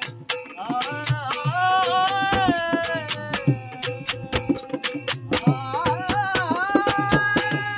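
Marathi devotional bhajan music: a melodic line that slides between held notes over a steady beat of percussion strokes.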